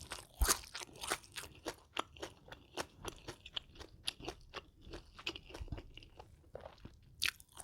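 Close-miked chewing of crisp food, a steady run of crunches at about three to four a second.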